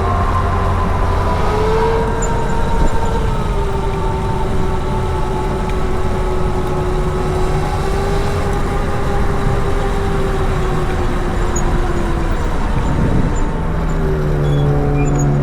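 Riding an electric motorcycle through city traffic: steady wind and road rush with a whine that wavers slightly in pitch, and a deeper engine tone from nearby traffic coming in near the end.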